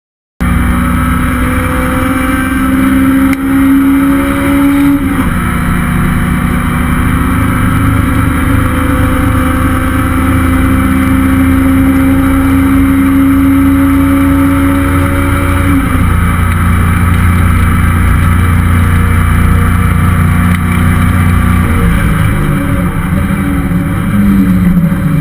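Honda S2000 (AP1) with a stock F20C 2.0-litre inline-four running at high revs under hard driving on a race track. The engine note climbs slowly and drops with an upshift about five seconds in and again about sixteen seconds in, and it changes pitch several times near the end.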